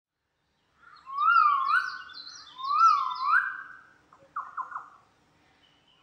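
A bird calling: two loud whistled calls, each sliding up in pitch and then held, followed about four seconds in by three short, quick notes.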